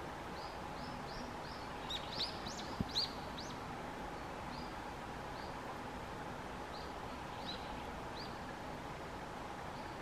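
A small bird chirping in short, high notes, a few a second at first, bunching louder about two to three seconds in, then more sparsely. A single sharp click comes about three seconds in, over a steady hiss.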